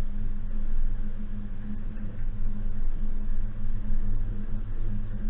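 Suzuki Jimny's 1.5-litre four-cylinder petrol engine running at steady revs as the vehicle drives off-road, a constant low hum that doesn't rise or fall.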